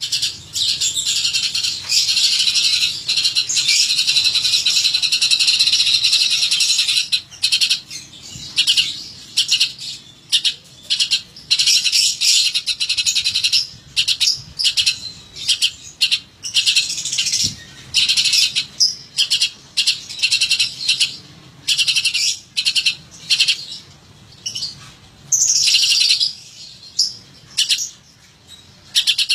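Cucak cungkok songbird singing: high chirping song that runs on without a break for about the first seven seconds, then comes in separate phrases with short pauses.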